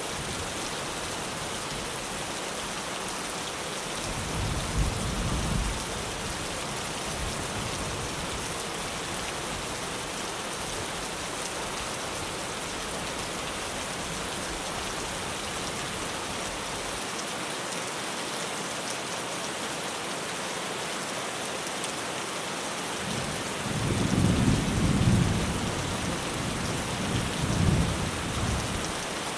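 Rain falling steadily on a tin roof, with a low rumble of thunder about four seconds in and a longer, louder rumble in the last few seconds.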